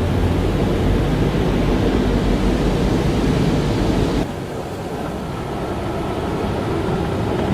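Car wash running: a steady rush of water and machinery over a low motor hum. About four seconds in the sound changes suddenly, the low rumble dropping away and the noise thinning, then it slowly builds again.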